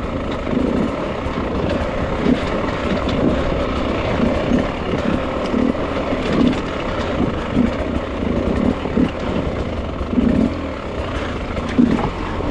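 Beta dirt bike engine running at low revs in short, uneven pulls of the throttle while it picks its way over loose, rocky ground.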